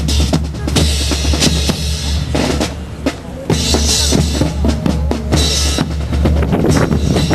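Snare and bass drums playing a steady marching cadence with sharp, rapid strikes, over a constant low rumble.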